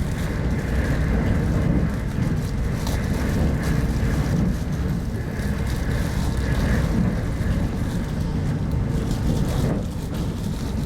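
Steady running noise of a moving passenger train heard from inside an RZ25T coach: a low rumble of wheels on rail, with faint light ticks now and then.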